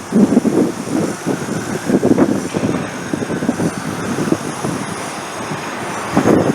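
Train running on rail, its wheels rumbling and clattering irregularly over the track, with a faint high whine joining about halfway.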